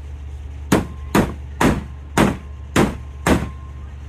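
Six hard knocks in quick succession, about one every half second, several leaving a brief ring at one pitch, over a steady low hum.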